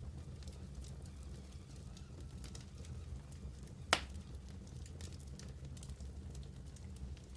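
Wood fire burning in a fireplace: a low steady rumble with scattered faint crackles, and one loud sharp pop about four seconds in.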